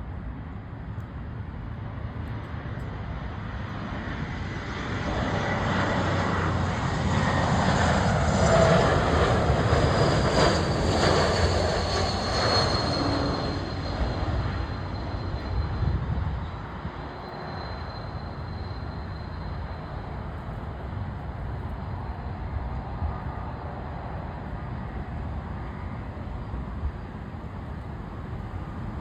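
Jet airliner passing by. Its engine noise swells over several seconds, is loudest about ten seconds in, then fades, with a high whine that drops in pitch as it goes past.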